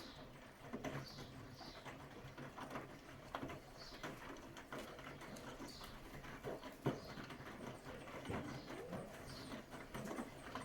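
Bosch WAT286V0 front-loading washing machine in its wash phase: the drum turning the laundry, with water sloshing and irregular soft knocks.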